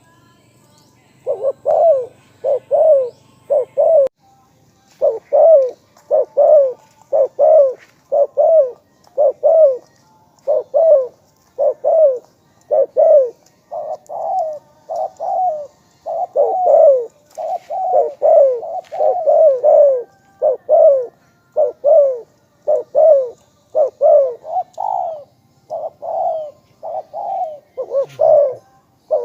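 Spotted dove cooing over and over in short, even coo notes, about one to two a second, with a brief pause about four seconds in. It is a caller dove, kept for its good voice in luring wild doves.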